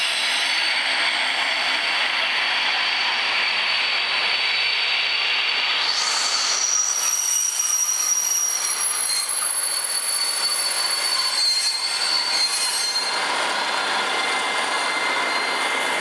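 Passenger train rolling slowly past with the high, steady metallic squeal of its wheels, while a DB Class 218 diesel-hydraulic locomotive goes by close at hand; the locomotive's engine sound grows fuller near the end.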